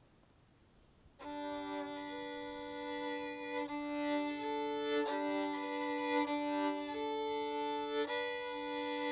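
Background score music: a bowed string instrument, likely a violin, enters about a second in and plays a slow melody over a held low note.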